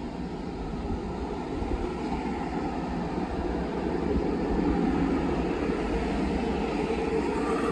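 Long Island Rail Road electric multiple-unit train rolling along the track: a steady rumble of wheels on rail that grows a little louder about four seconds in.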